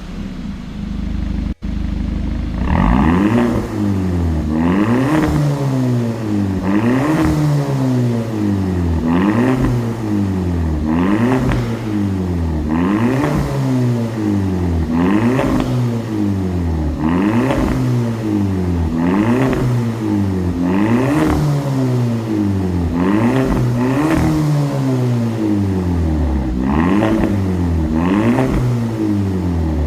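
Hyundai Avante Sport's turbocharged four-cylinder engine, breathing through a custom variable-valve exhaust with titanium tips, idling briefly and then revved in the stationary car over and over: about one rev every two seconds, each rising and dropping back.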